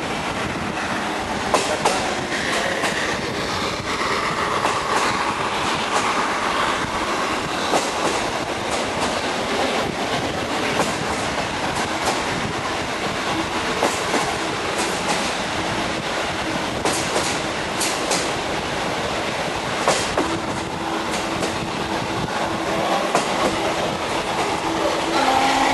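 Train hauled by the restored steam locomotive BDZ 46.03 running along the line: a steady rumble with the clickety-clack of wheels over rail joints and sharp clicks throughout. Near the end a steady tone of several pitches comes in.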